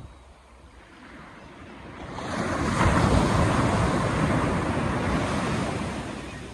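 An ocean wave breaking and washing up the shore: the surf builds about two seconds in, peaks, then slowly fades away near the end.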